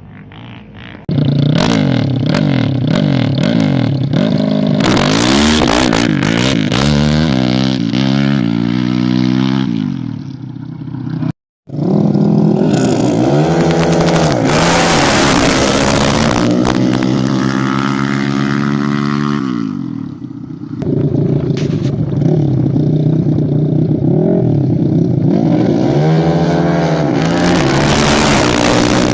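Sport ATV engines revving hard, climbing in pitch and dropping again through the gears, with machines passing by. The sound jumps up about a second in and cuts out briefly about eleven seconds in.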